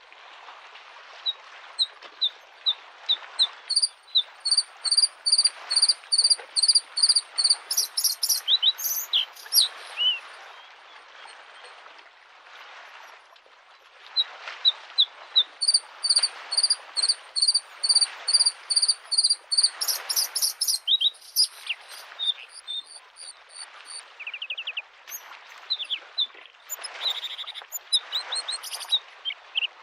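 Bluethroat singing: two long phrases, each a run of repeated clear high notes, about two or three a second, growing louder and then breaking into a quick jumble of varied notes, with more scattered notes near the end. Underneath, a steady wash of lake waves lapping the shore.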